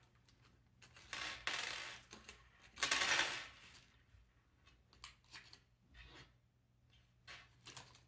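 Small metal screws and nuts rattling and clinking as they are handled, with a longer rattle about a second in and a louder one around three seconds, then scattered light clicks.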